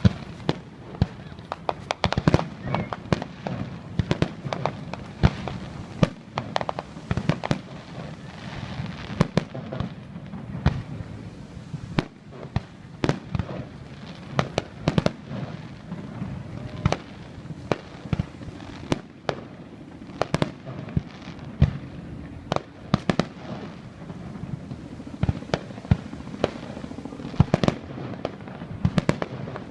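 Aerial fireworks bursting: a rapid run of sharp bangs and pops, several a second, over a steady low rumble of echoing booms.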